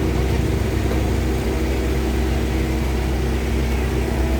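Engine running steadily: a continuous low hum with steady tones and no change in speed.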